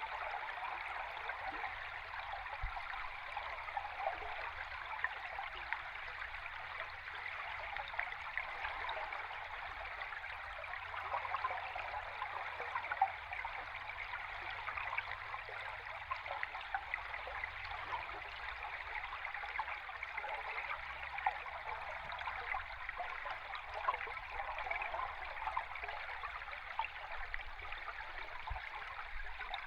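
River current recorded underwater: a steady rushing with fine crackling.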